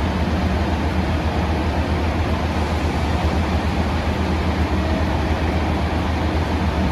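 Train running steadily, a constant low hum under an even rumble with no distinct clanks or horn.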